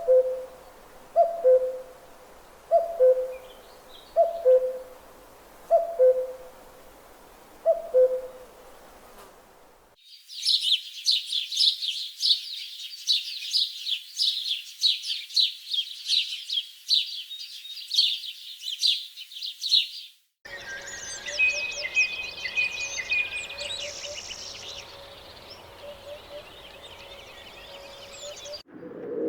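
Three clips of bird calls in a row. First a two-note falling hoot, repeated six times over about eight seconds. Then about ten seconds of rapid high chirping, then mixed birdsong with a steady low tone underneath.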